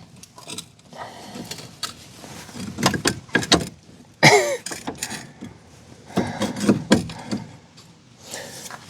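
Scattered metallic clanks, clicks and rattles of suspension parts and hand tools as a car's front strut assembly is worked into place, with a brief falling pitched sound about four seconds in.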